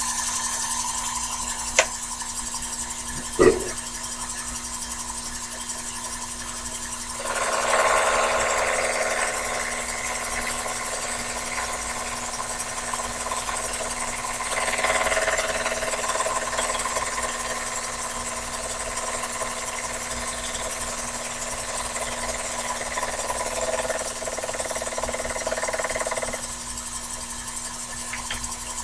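Sherline mini lathe running with a steady motor hum, two sharp clicks in the first few seconds. From about seven seconds in, the tool cuts the work turned between centers: a rougher scraping, squealing sound in two passes that stops a couple of seconds before the end.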